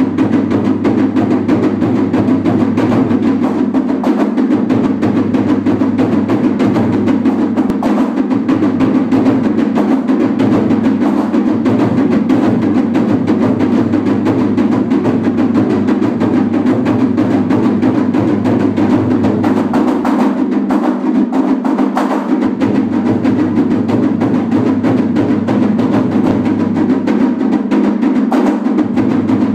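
Japanese festival taiko drums played in a fast, dense, unbroken rhythm.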